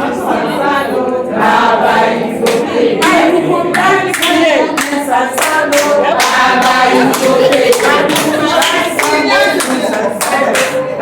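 A group of people singing together with hand-clapping in a steady rhythm.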